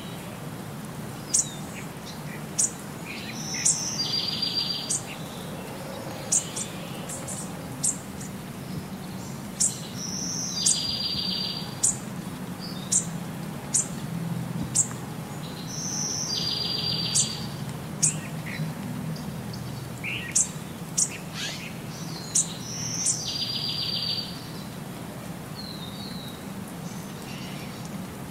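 Birds chirping: many short, sharp chirps and a buzzy trill about a second long that comes back about every six and a half seconds, over a faint low hum.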